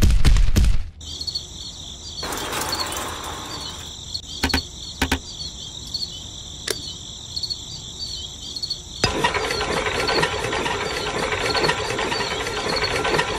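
A steady, high, cricket-like chirring with a few sharp clicks. About nine seconds in, a rough mechanical whirring starts and keeps going.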